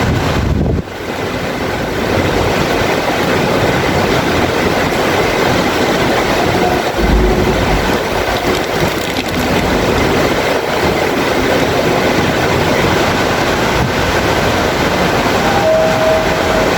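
Heavy rain, a steady dense rush, dipping briefly in level about a second in.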